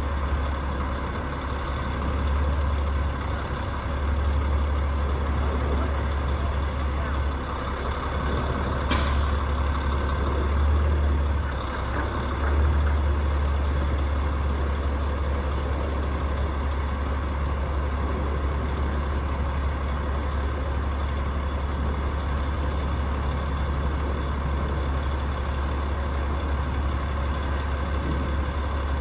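Rooftop HVAC unit running with a steady low drone, with a brief sharp hiss about nine seconds in.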